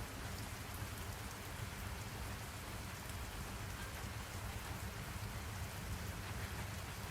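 Steady rain falling, an even hiss of drops with a low rumble underneath, used as a rain-sound ambience.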